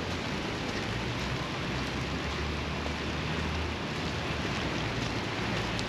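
Steady rain falling, an even hiss with no breaks, over a low rumble underneath.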